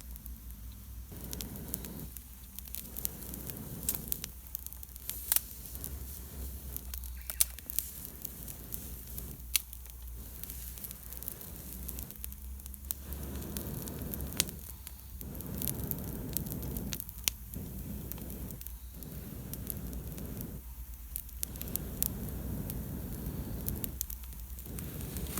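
Wood campfire of wet wood crackling and popping, with repeated rushes of air blown through a fire-blowing pipe into the embers, one every one to two seconds, to bring the damp fire up.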